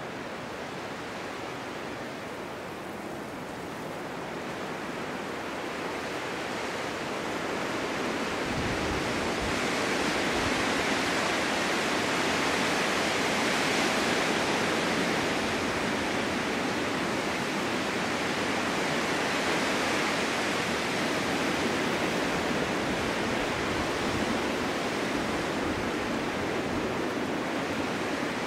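Snowstorm wind blowing, a steady rushing that builds up over several seconds into a stronger, longer gust and stays strong.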